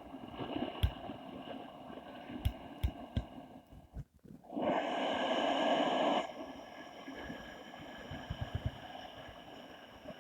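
A person's forceful, drawn-out breath, a loud hiss lasting about a second and a half near the middle, part of a qigong 'fire' abdominal breathing cycle. Faint hiss and a few soft knocks around it.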